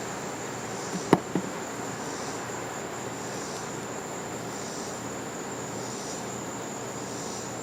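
Evening insect chorus: a steady high trill with a softer chirping that swells about once a second. Two short knocks about a second in.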